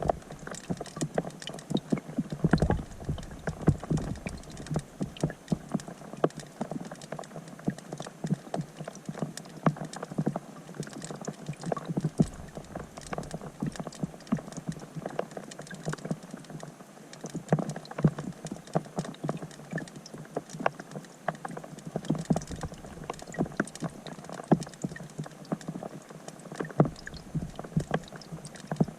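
Rain falling on a pond's surface, heard from underwater through a GoPro Hero 5 Black's microphone: a dense, irregular patter of drop ticks over a steady hiss.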